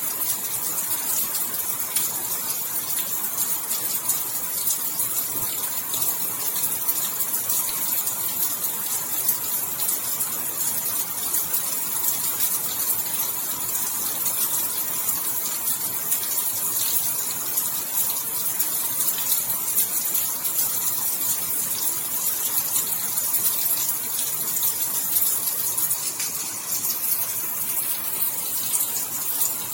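Rain falling steadily: a dense, even hiss of many drops that stays constant throughout.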